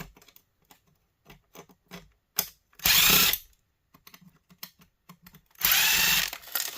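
Power drill running twice to back out screws from a plastic heater housing: a short run about three seconds in and a longer one near the end, with light clicks of small parts being handled in between.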